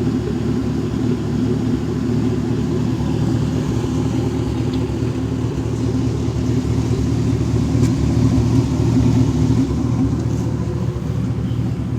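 A 1500HD pickup's V8 running through an X-pipe and dual Carven exhaust, a steady exhaust note that swells slightly about eight seconds in before settling back.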